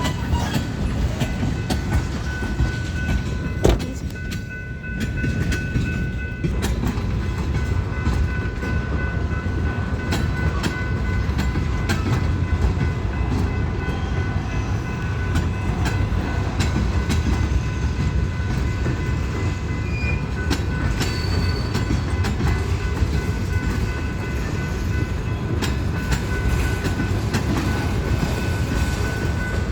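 BNSF freight train rolling slowly out of the yard: a steady low rumble with frequent sharp clicks as the wheels pass over the rail joints.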